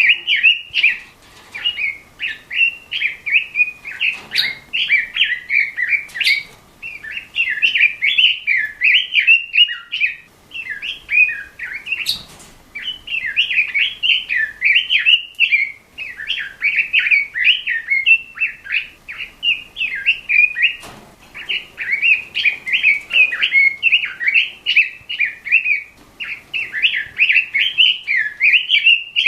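Pekin robin (red-billed leiothrix) singing continuously: fast, chattering warbled phrases with short pauses between them, and a few brief clicks.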